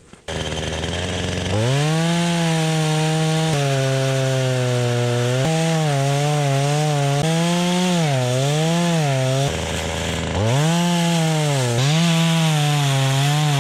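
Two-stroke chainsaw idling, then revving to full throttle and ripping lengthwise down the centre of a 20 cm log, its pitch dipping as the chain bogs in the cut. About two-thirds of the way through it drops back to idle for a second, then revs up again for the second rip cut.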